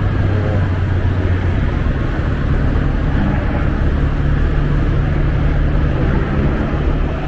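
Scooter engine running steadily while riding, with a low hum under steady wind and road rush on the rider's microphone.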